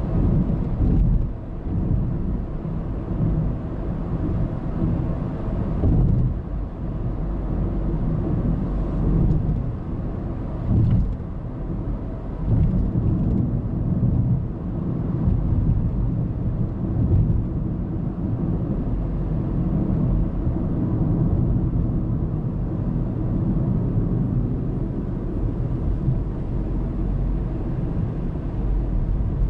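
Car road noise picked up by a dashcam inside the cabin: a steady low rumble of tyres and engine while driving, with a few brief louder thumps from bumps in the road.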